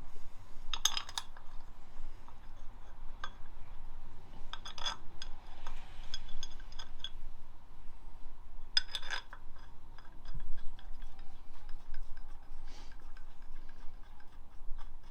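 Metal tools and engine parts clinking and rattling as they are handled, in short clusters about a second in, near five seconds and near nine seconds, with lighter ticks in between.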